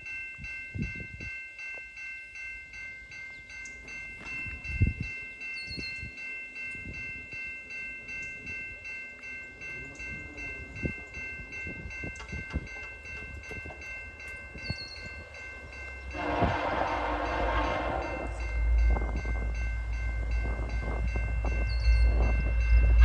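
A level-crossing warning bell rings steadily. About 16 seconds in, the horn of an approaching VIA Rail F40PH locomotive (a K3LL) sounds, and the deep rumble of the train builds as it nears at speed.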